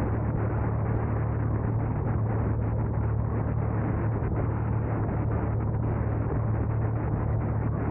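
A car driving at a steady pace: a constant rumble of road and engine noise with a deep steady hum underneath.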